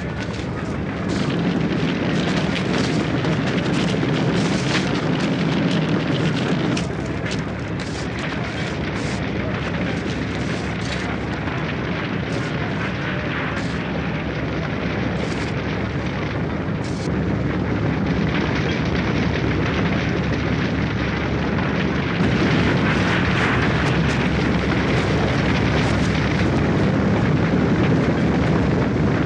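Oil well fire burning with a steady, loud rush and a continuous crackle, changing level a few times.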